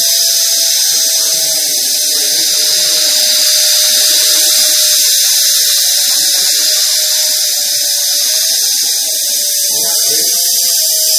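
A machine fitted with a 1 kW muffler running steadily: a loud, even high-pitched hiss with a steady whine underneath.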